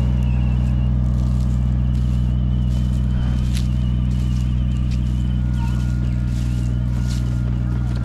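Tractor engine running steadily as it pulls a disc row-maker attachment through garden soil, with a few faint ticks and clicks over the hum.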